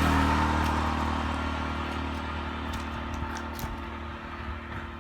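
A motor vehicle engine running with a steady low hum, fading gradually as it moves away, with a few faint clicks near the middle.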